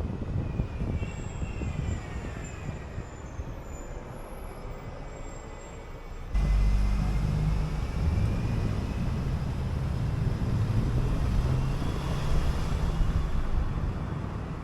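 City bus running, heard from aboard: engine rumble and road noise, with a faint rising and falling whine in the first half. About six seconds in the low engine rumble suddenly grows much louder and stays up.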